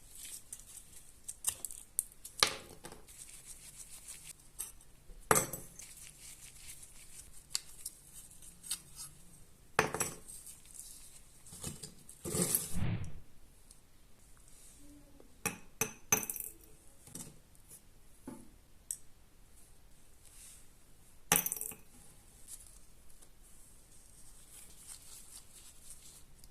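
Small metal parts and tools clinking and tapping on a hard surface: a handful of sharp knocks spaced seconds apart, with a longer rattle about twelve seconds in.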